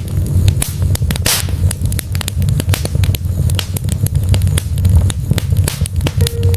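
Wood fire burning in a fireplace: dense, irregular crackles and pops from the burning logs over a steady low rumble of the flames, with one louder pop about a second in.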